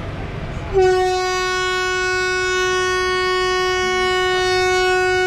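Train horn sounding one long, steady blast that starts about a second in, over the low rumble of the train running.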